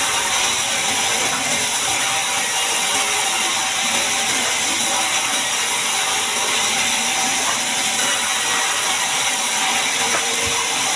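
Band sawmill running with a steady, high-pitched hissing noise, typical of the blade working through a large mahogany log.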